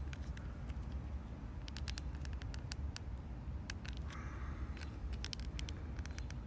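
Light clicks and scratches of a plastic car key fob being handled and worked open, over a low steady rumble.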